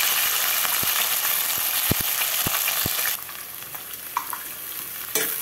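Sliced onions, green chillies and whole spices sizzling in hot oil in a metal pot, with a few sharp knocks of a spoon against the pot as they are stirred. The sizzle drops off suddenly about three seconds in, leaving quieter stirring.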